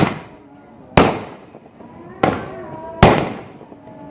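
Fireworks exploding: four sharp bangs about a second apart, each trailing off quickly.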